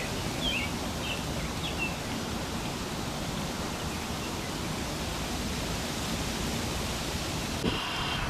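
Steady outdoor rushing noise, with a few short bird chirps in the first couple of seconds.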